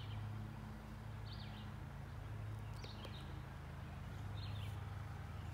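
Birds giving short chirps four times, about a second and a half apart, over a steady low hum of outdoor background.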